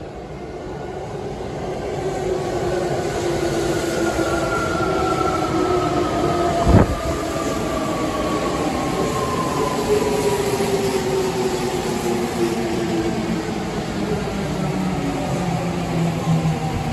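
A Saitama Railway 2000 series train with a Mitsubishi IGBT VVVF inverter pulling into a station. Its motor whine is made of several tones that fall slowly in pitch as it brakes, over steady rolling noise. There is one sharp knock about seven seconds in.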